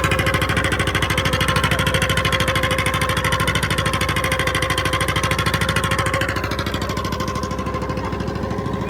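A fishing boat's engine running steadily with a rapid, even chug, easing off slightly about six seconds in.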